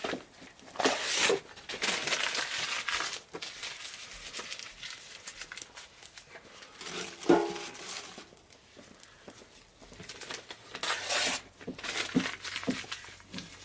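Crinkling and rustling in several short bursts, as material is handled and crumpled while a wood fire is laid in a mangal, with a brief pitched sound about seven seconds in.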